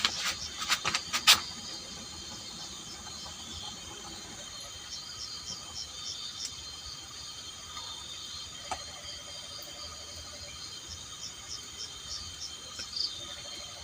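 Crickets and other insects chirring steadily, with rows of short repeated chirps. A few sharp clicks sound in the first second and a half.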